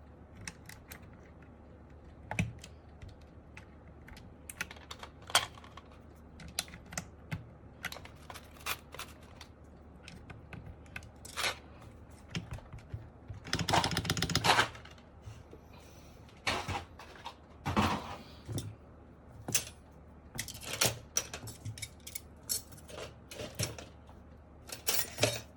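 Plastic keycaps being pressed onto an MK870 mechanical keyboard's Sky Panda switches: irregular sharp clacks as each cap seats and the switch bottoms out, with a quick run of clacks about halfway through.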